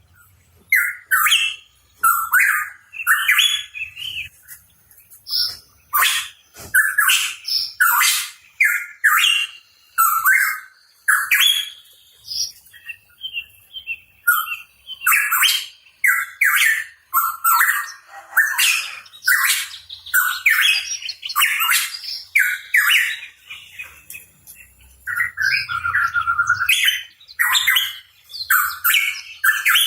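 Pitohui calling: a long run of short, sharp chirping notes, one to two a second, with a thinner patch of faint high whistles about halfway through.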